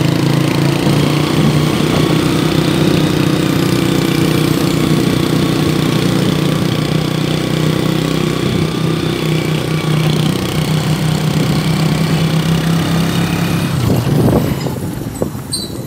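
Motorcycle engine of a tricycle (a motorcycle with a passenger sidecar) running steadily while under way. Its note eases off and fades near the end.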